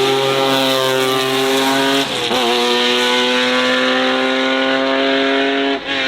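Race car engine running hard at a nearly steady high pitch, with a brief dip in pitch about two seconds in and another near the end.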